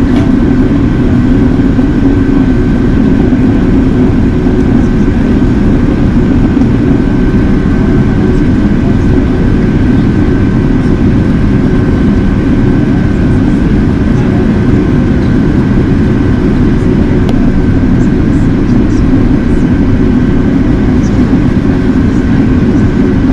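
Steady cabin drone inside an Airbus A380 in flight, with a faint high whine running under it.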